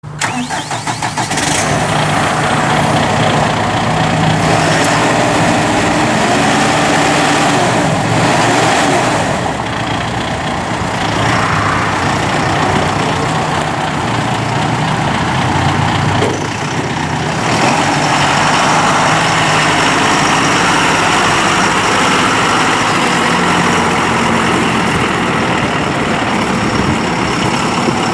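2016 John Deere 5100E tractor's turbocharged four-cylinder diesel engine running at a steady idle.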